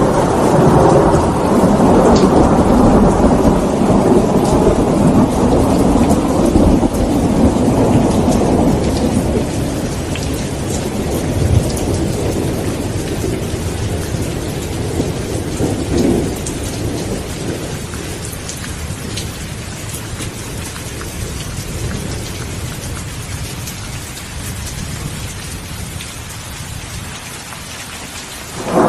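Steady rain with rolling thunder. A loud rumble of thunder fills the first several seconds and slowly dies away, while the rain hiss carries on, and a new clap of thunder starts right at the end.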